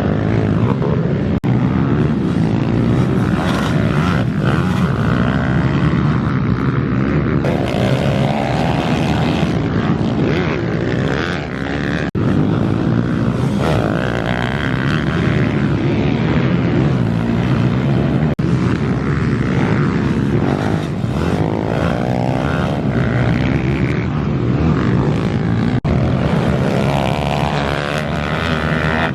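Bucci F15 140cc pit bike engine racing, heard close up from a helmet camera, its pitch rising and falling with the throttle as the rider works around the track.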